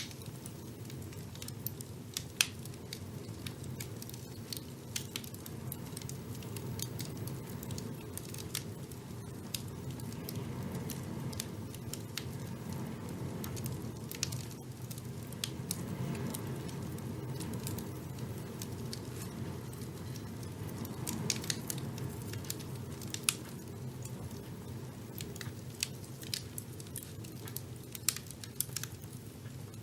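Wood fire burning in a fireplace: a steady low rush of flames with irregular crackles and pops, a few sharper pops standing out.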